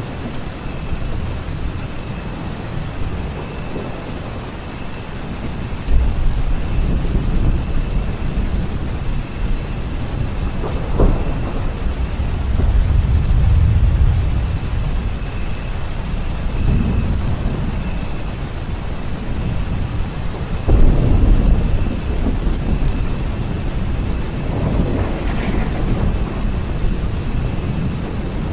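Steady rain with thunder: a sudden clap about six seconds in and another near twenty-one seconds, each followed by long low rumbling, with more rolling rumbles in between.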